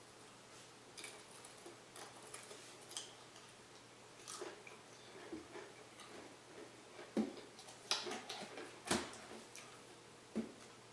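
A Pringles potato chip being chewed: faint, irregular crisp crunches, with a few louder sharp clicks in the second half.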